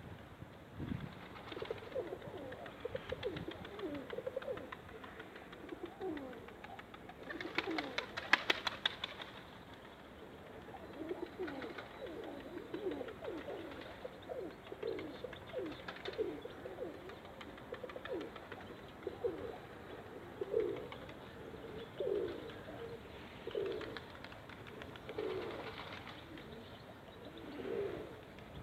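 Pigeons cooing, with short low calls repeating throughout. About eight seconds in there is a brief burst of rapid clattering, the loudest moment.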